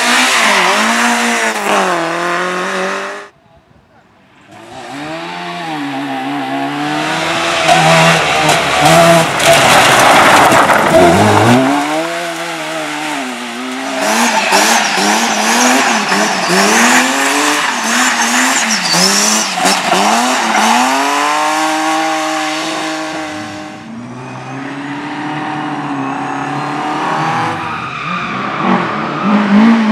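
Race car engine on a slalom course, revving up and falling back again and again as the driver accelerates and brakes between gates, with tyres squealing. The sound drops out briefly a few seconds in, then the engine picks up again.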